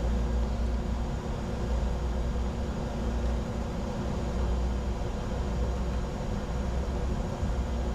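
Steady cockpit noise of a Bombardier Challenger 605 business jet in flight: a constant airflow rush over a low, even hum from the engines and avionics fans.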